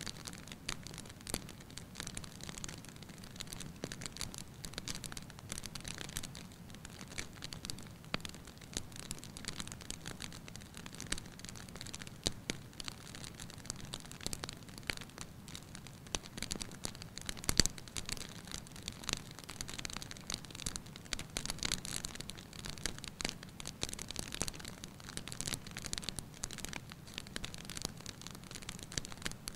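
Wood fire crackling in a fireplace: frequent small irregular pops, with one sharper pop a little past halfway, over a faint low steady rumble.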